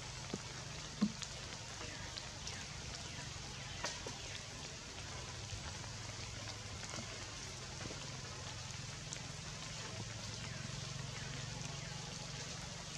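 Rain falling on tree foliage: a steady hiss of drops with scattered sharper drop hits, the loudest about a second in and another near four seconds.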